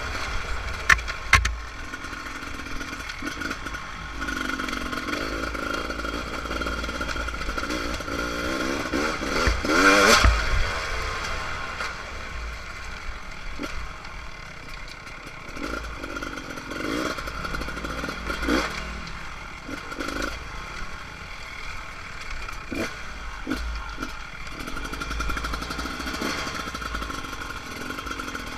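Beta RR300 single-cylinder two-stroke dirt bike engine running at low revs while being ridden, with one burst of revs about ten seconds in. Occasional knocks and clatter are heard throughout.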